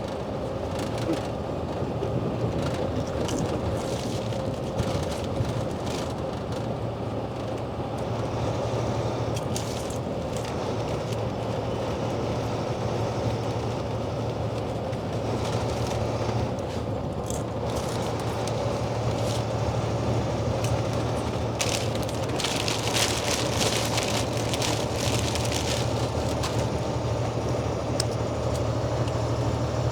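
Steady engine and road drone inside a semi-truck cab while driving, with bursts of crinkling and crunching about midway and again a few seconds later: a chip bag being handled and chips being eaten.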